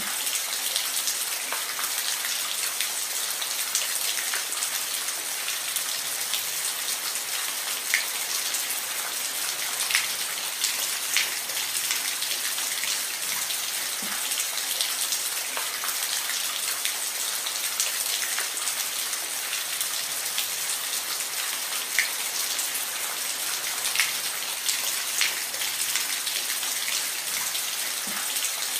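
Steady rain with individual drops ticking sharply on a hard surface.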